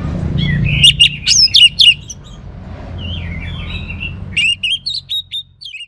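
Orange-headed thrush singing: quick runs of sharp, gliding whistled notes, a warbling phrase in the middle, and another fast burst of notes near the end. A low steady hum lies underneath and cuts off about three-quarters of the way through.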